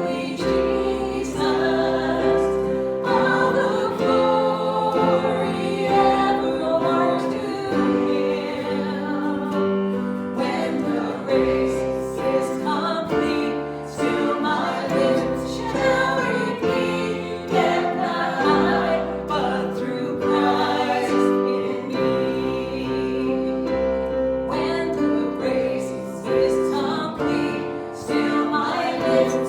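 A worship song: several voices singing together over instrumental accompaniment, with held chords and a steady bass line.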